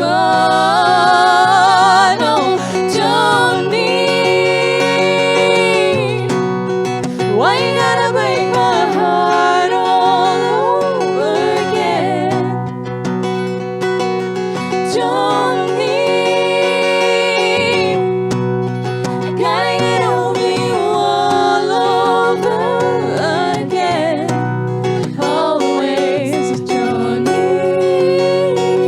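Live song: several voices singing in harmony with vibrato, over acoustic guitar accompaniment.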